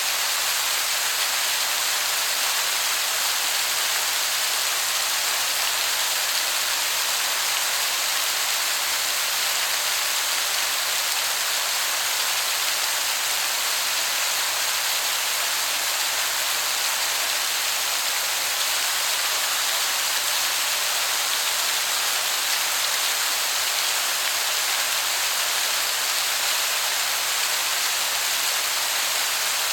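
Waterfall heard from some distance as a steady, even hiss that sounds like heavy rain.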